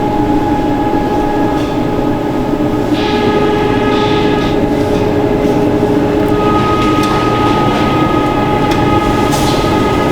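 Food-processing machinery running steadily, a loud mechanical drone with several constant tones, with a few short sharp noises on top.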